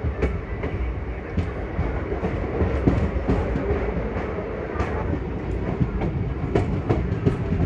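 Passenger express train rolling out of a station, heard from a coach doorway: a steady low rumble of the running gear with irregular clicks and knocks of wheels over rail joints and points.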